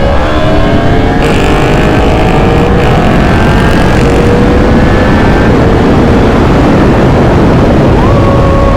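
Sport motorcycle engine pulling hard at high revs at speed, its pitch climbing over the first couple of seconds and then holding, under heavy wind rush on the helmet microphone. Near the end a second engine tone joins and slowly falls in pitch.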